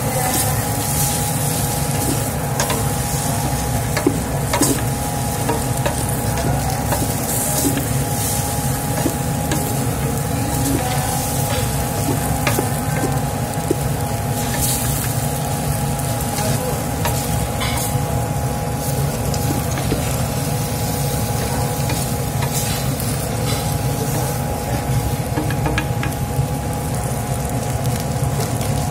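Mee goreng noodles frying in a hot metal pan, sizzling steadily while a wooden spatula stirs and tosses them, with frequent small clicks and knocks against the pan. A steady hum runs underneath.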